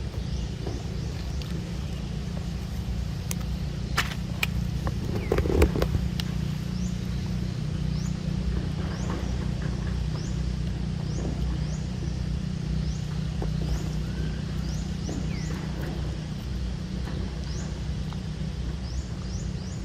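Outdoor background: a steady low rumble like distant traffic, with many short, high, rising chirps scattered through it and a few sharp clicks and knocks about four to six seconds in.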